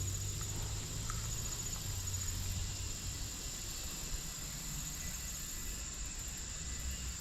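A steady, high-pitched trilling of insects, with a low hum underneath that fades out about three seconds in.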